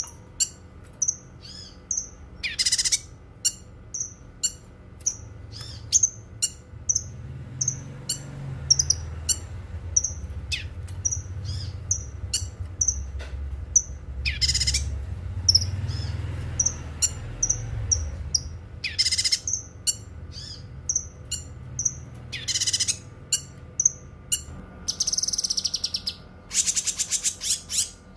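Cucak kinoi singing: a run of short, high chirps several times a second, broken every few seconds by longer, louder rattling phrases, with a rapid trill near the end. A low rumble sits under the song in the middle.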